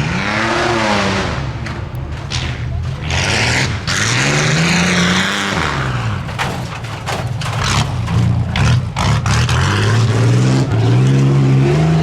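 4x4 tuff truck's engine revving hard during a timed run, its pitch climbing and dropping several times as the throttle is worked. Sharp knocks and clatter come through in the second half.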